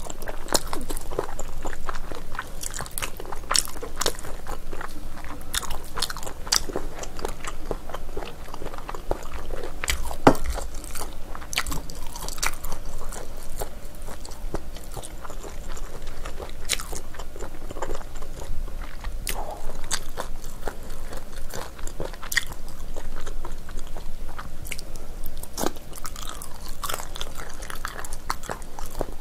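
Close-miked biting and chewing of spicy braised ox feet: chewy, gelatinous skin and tendon pulled from the bone and chewed, with a continual run of short wet clicks and smacks. One sharper click stands out about ten seconds in.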